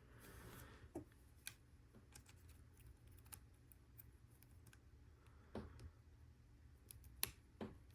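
Faint, sparse clicks and taps of plastic LEGO Technic pieces being handled and fitted together, spaced a second or more apart, with a soft rustle in the first second.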